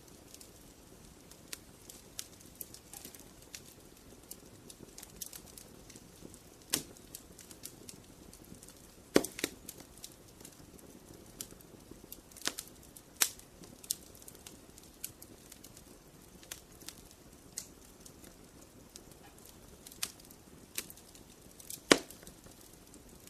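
Campfire burning: a low steady hiss with irregular sharp crackles and pops of burning wood, a few of them loud.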